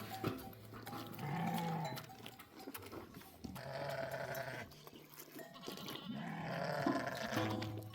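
Sheep bleating: about three long calls, one after another, a couple of seconds apart.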